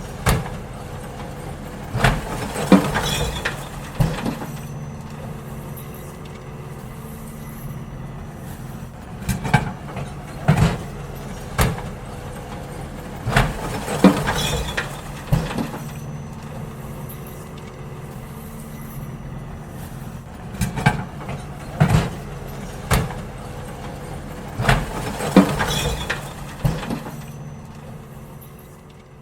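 Garbage truck running steadily at idle while it empties wheelie bins, with groups of sharp bangs and clatters every several seconds as the bins are tipped and knocked against the truck. The whole sound fades out near the end.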